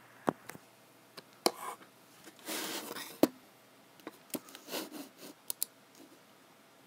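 Computer work at a desk: separate mouse and key clicks and taps, with a short sliding swish about two and a half seconds in and a quick cluster of clicks around five seconds.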